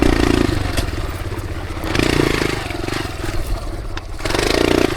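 Dirt bike engine running at low revs, with the throttle blipped twice, about two seconds in and again near the end.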